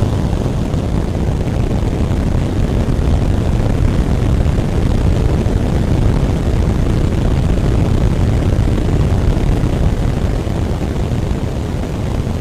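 Super Heavy V3 booster's 33 Raptor engines firing in a full-thrust static fire: a loud, steady, deep rumble.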